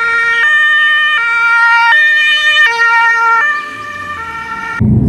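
Electronic two-tone ambulance siren, switching between a high and a low note about every three-quarters of a second, and cutting off suddenly near the end.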